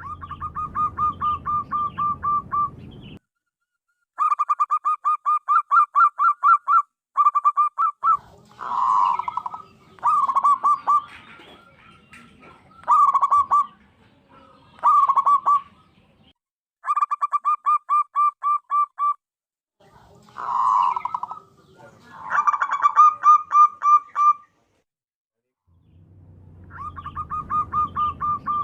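Zebra dove (perkutut) song: phrases of two to three seconds of rapid staccato cooing notes, about four or five a second, repeated over and over with short pauses between them.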